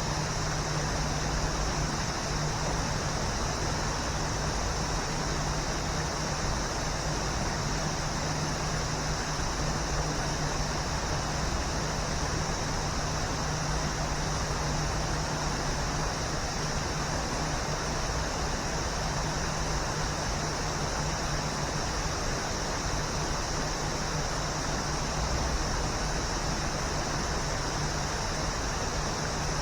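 Waterfall, water pouring and rushing in a steady, unbroken hiss, with a steady low hum underneath.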